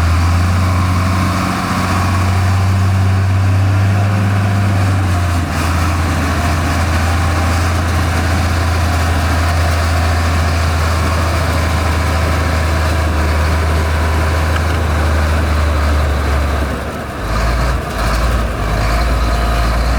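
Heavy construction machine's diesel engine running with a steady low hum. Its note drops slightly about a quarter of the way in, and it wavers near the end.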